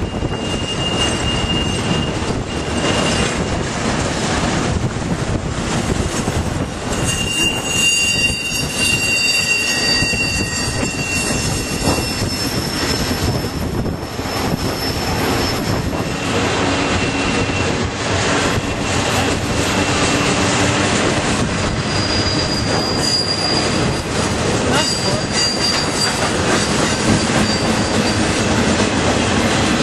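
Train cars rolling past with a steady rumble and clatter of wheels on rail. High-pitched wheel squeal comes and goes over it, strongest about a third of the way in and again past the middle.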